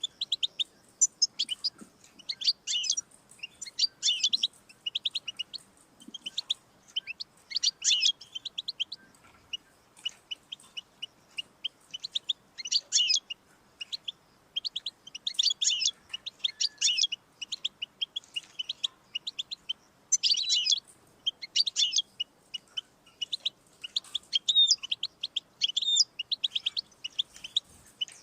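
European goldfinch singing: fast twittering phrases and rapid trills of high notes, coming in bursts with short pauses between.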